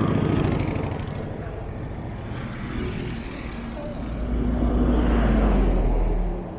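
Downtown road traffic passing alongside, cars and buses. A heavy vehicle's low rumble builds about four seconds in and falls away near the end.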